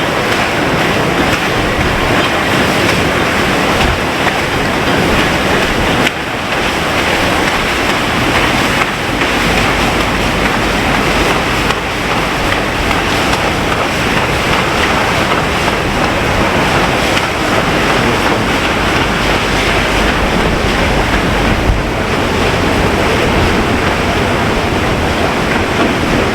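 PS Waverley's paddle wheels churning the water as she moves off from the pier: a steady rushing wash, with wind buffeting the microphone.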